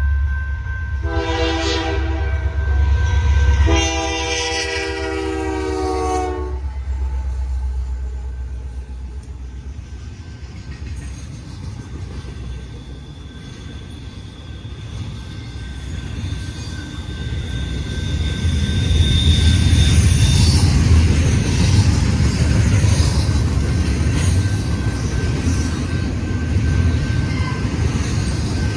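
Union Pacific diesel freight locomotive sounding its air horn twice, a short blast and then a longer one that drops in pitch at its end. The train's steady low rumble follows and grows louder in the second half as it passes.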